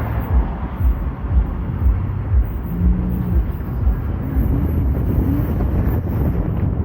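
BNSF freight train rolling past: a steady low rumble with repeated low thumps, about two a second, typical of wheels clacking over rail joints.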